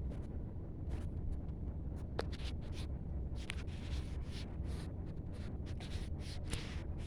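Lego bricks being handled: scratchy rustling of small plastic pieces with a few sharp clicks, over a steady low rumble.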